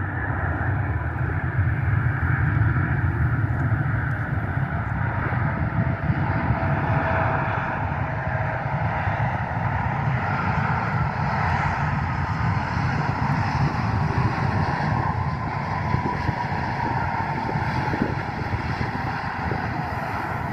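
Airplane engines running loud and steady, a deep rumble with faint whining tones that slide slowly down in pitch.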